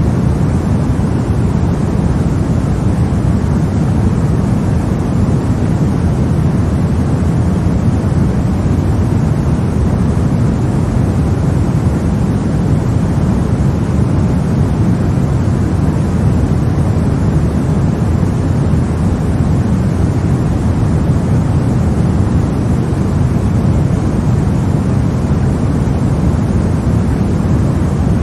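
Continuous white noise for sleep: an even, unchanging hiss, deep in tone, with most of its weight in the low end.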